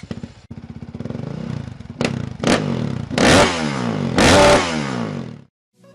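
Motocross bike engine revving hard, its pitch climbing and falling again and again. The two loudest revs come about three and four seconds in, and the sound cuts off suddenly near the end.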